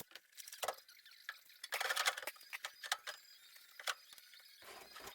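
Welding arc crackling in short, irregular bursts, the longest about two seconds in, as pinholes along the seam of a replaced cowl panel are welded shut.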